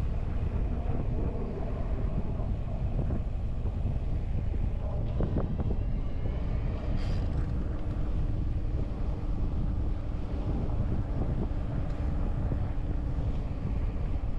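Wind rumbling on the microphone of a moving bicycle, a steady low-heavy noise, with a few light knocks.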